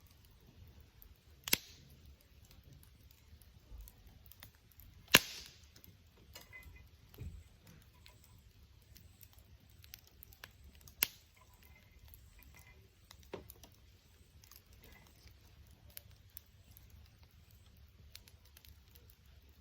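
Wood campfire crackling, with scattered small ticks and four louder sharp pops spread through it.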